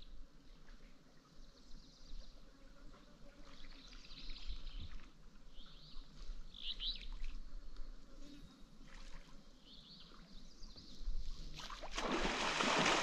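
Faint, scattered high bird chirps over a quiet river. About a second before the end, a loud rushing noise sets in suddenly.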